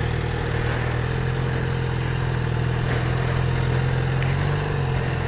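Motorcycle engine idling steadily close by, with a slight change in engine speed about four seconds in.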